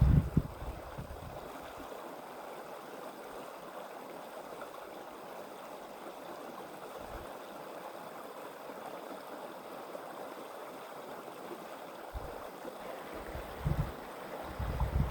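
Mountain creek water flowing steadily over rocks, an even rushing. A few low buffeting rumbles on the microphone at the start and again near the end.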